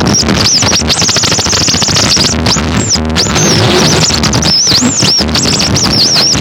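Harsh noise music: a loud, dense wall of noise over a low drone, with a high squealing electronic tone warbling and swooping up and down and rapid stuttering cuts, briefly dropping out about three seconds in.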